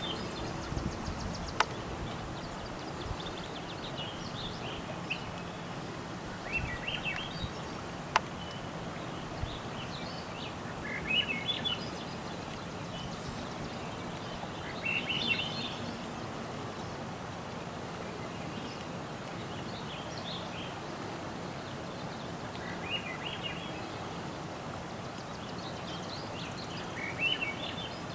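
A songbird repeating a short rising phrase every four seconds or so over a steady background hiss. Two sharp clicks come about one and a half and eight seconds in.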